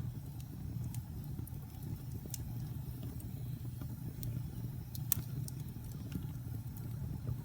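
Wood fire burning in a fireplace: a steady low rumble of the flames with scattered sharp crackles and pops, the loudest pop about five seconds in.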